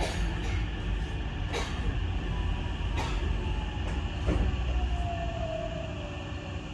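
Hankyu 9000 series electric train heard from inside the car in a tunnel: a steady low rumble with a sharp wheel click about every second and a half. From about two seconds in, a motor whine falls steadily in pitch and the noise eases as the train slows into a station.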